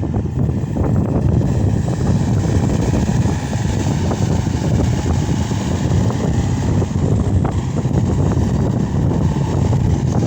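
Case SR200 skid steer loader's diesel engine running steadily, with an even hiss over it.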